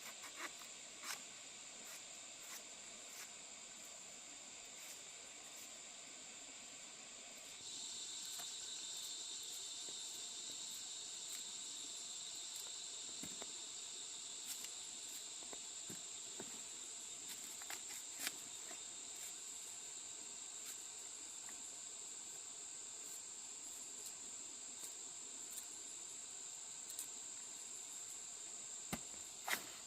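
Steady high-pitched insect chorus. A second, slightly lower insect buzz joins about a quarter of the way in and keeps going. Scattered light clicks and knocks are heard throughout, with the sharpest couple near the end.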